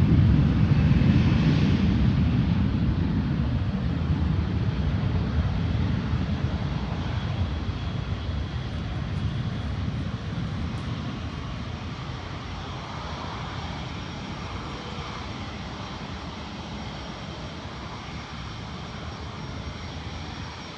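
Jet airliner's engines at takeoff thrust during the takeoff roll: a loud, low rumble that fades steadily as the aircraft moves away down the runway.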